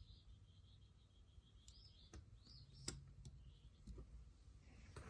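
Near silence: faint bird chirps in quick series, with a few small clicks.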